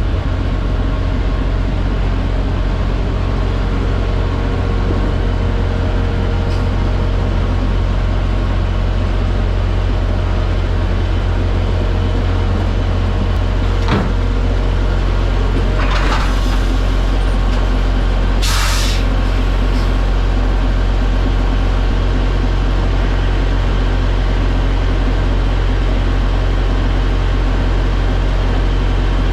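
Semi truck's diesel engine running with a steady low drone, with a sharp click about halfway through and two short hisses of air from the air brake system a few seconds later.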